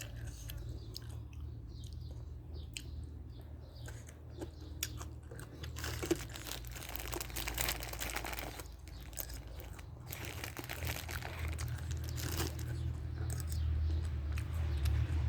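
A person chewing and crunching crisp food close to the microphone, in uneven bursts with sharp crackles. A steady low hum runs underneath.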